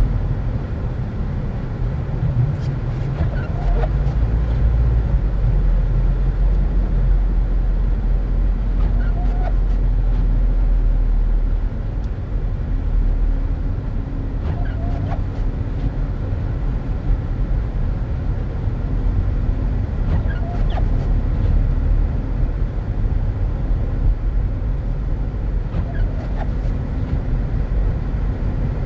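A car driving through snow: a steady low rumble of engine and tyre noise, with a short faint chirp about every six seconds.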